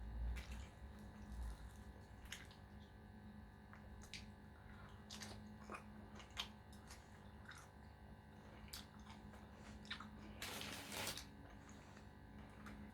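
Faint close-up eating sounds: scattered small mouth clicks and chewing. About ten seconds in there is a louder scratchy sound lasting about a second.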